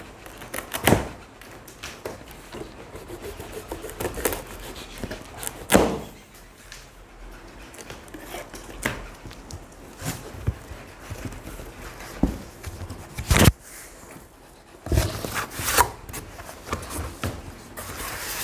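Scattered thumps and knocks of a washing machine being unpacked from its packaging, at irregular intervals, the loudest about 13 seconds in.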